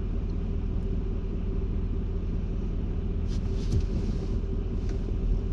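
Steady low rumble and hum of automatic car wash machinery heard from inside the car, during the soak stage with the high-pressure jets not yet running. A few brief faint hisses come about three and a half seconds in and again near the end.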